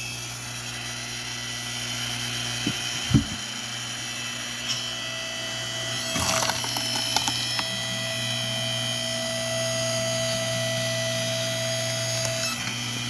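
Engine-driven hydraulic log splitter running steadily. About five seconds in, a whine rises as the ram pushes the wedge through a log, with a few cracks and knocks of wood splitting. The whine drops off near the end.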